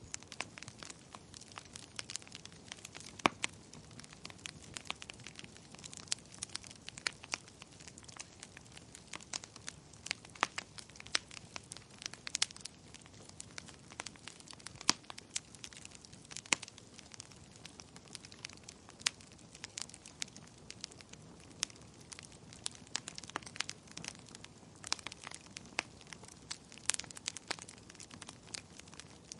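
Wood fire crackling: irregular sharp pops and snaps, a few each second and some louder than the rest, over a soft rumble of the flames.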